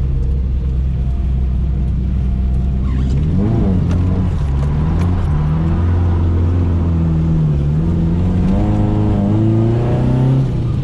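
Nissan 240SX (S13) engine running steadily at low revs, then revving up and down several times as the car accelerates and changes speed. The last climb in pitch breaks off with a drop near the end.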